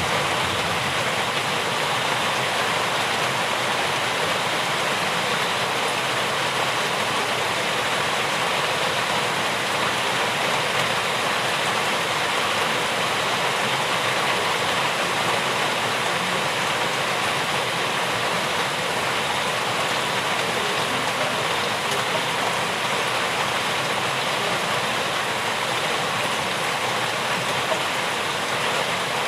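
Rain falling steadily: an even, unbroken rushing noise that holds the same level throughout.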